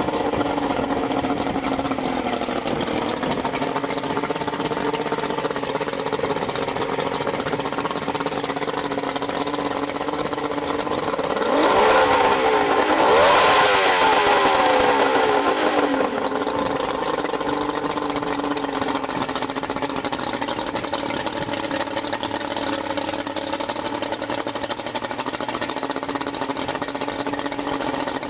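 A 1985 Grady-White 226 Seafarer's engine running at idle. It is revved up and back down for a few seconds about midway, then settles to a steady idle again.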